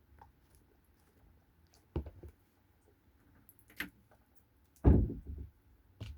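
Handling noises as a squishy stress ball is picked up and squeezed: a few short soft knocks and rustles, the loudest about five seconds in.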